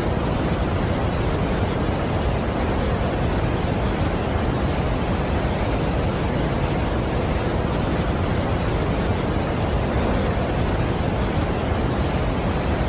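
Large waterfall's steady rushing noise, even and unbroken, heaviest in the low end.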